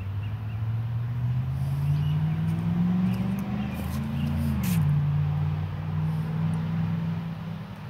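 A motor vehicle engine accelerating: its pitch rises steadily for about four seconds, drops sharply, then holds steady.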